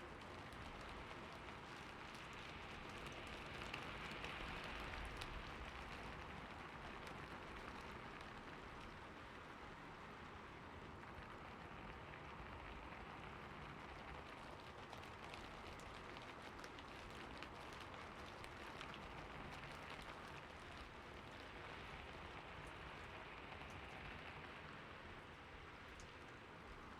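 Soft, steady rain falling on a surface, an even hiss with faint scattered drop ticks.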